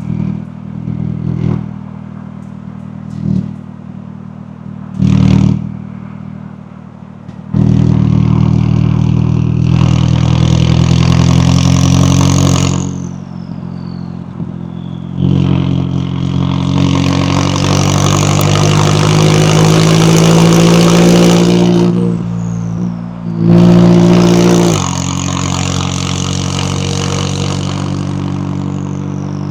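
McLaren 570S twin-turbo V8 engine and exhaust: a few short throttle blips, then two long hard pulls with rising pitch. A falling whistle follows each pull as the throttle lifts. A brief rev comes near the end, followed by steady running.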